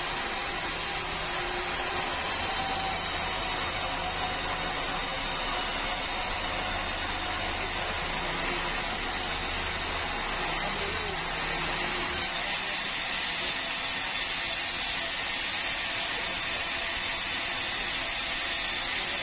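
Sawmill saw and its engine running steadily while cutting meranti timber, with a low hum dropping away and the sound changing about twelve seconds in.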